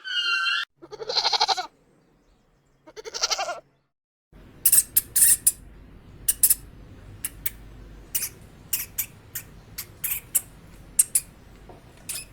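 A goat bleats twice, each a short quavering call. From about four seconds in there is a run of short, sharp high squeaks or chirps at irregular intervals over a low hum.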